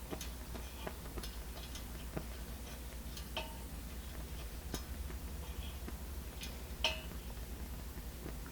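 Coleman 502 single-burner stove during preheating: scattered, irregular light metallic clicks and ticks, one sharper click a little before the end, over a steady low hum.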